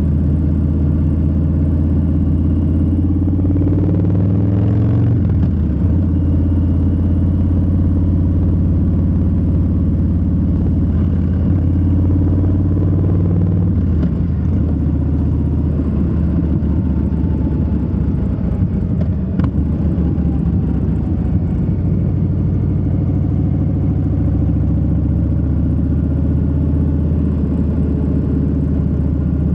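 Harley-Davidson Low Rider S Milwaukee-Eight 117 V-twin engine and exhaust under way while riding. The engine pitch rises and shifts about four to five seconds in and changes again around halfway.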